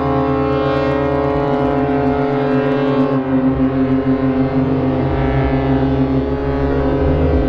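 Ships' horns sounding together in long, steady blasts, several deep tones held at once without a break.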